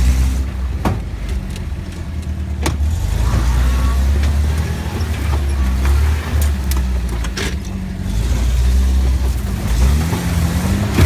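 A motor vehicle's engine running with a deep, uneven hum, broken by several sharp knocks and clatters, with a short rise in pitch near the end.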